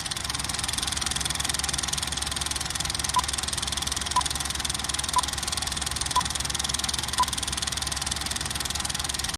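A steady, fast-pulsing engine-like running noise, with five short beeps one second apart from about three seconds in.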